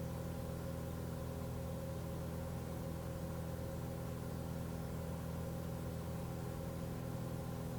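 Cessna 182 single piston engine and propeller running with a steady drone, holding an even pitch throughout.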